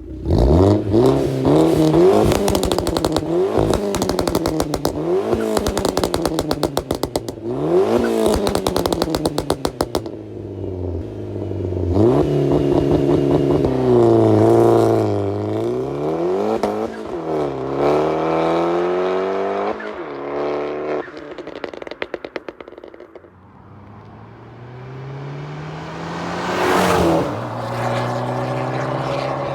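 Modified Abarth 500/595's turbocharged 1.4-litre four-cylinder engine revved repeatedly through an aftermarket exhaust, the pitch sweeping up and falling back with each blip. Rapid runs of crackling pops sound as the revs drop.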